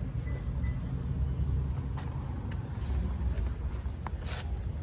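Car engine running steadily at low revs, with a few light clicks and a short hiss about four seconds in.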